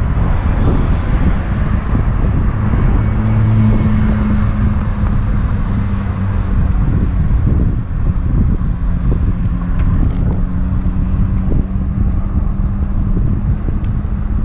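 Wind buffeting a helmet-mounted action camera's microphone while riding a bicycle, with bumps and rattles from the road. A steady low engine hum from a motor vehicle runs underneath, swelling about three to four seconds in.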